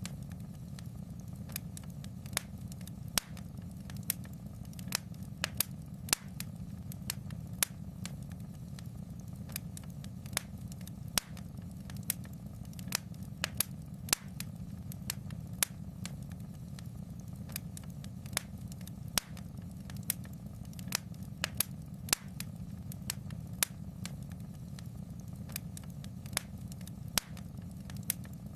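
Wood fire in a fireplace crackling: irregular sharp pops and snaps, one to three a second, over a steady low rumble.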